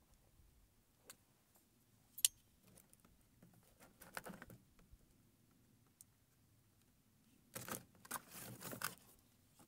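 A new Stanley camp cook pot being unpacked from its cardboard box: scattered small clicks and rattles, a sharp click about two seconds in, then a stretch of scraping and rustling near the end as the box is cut open.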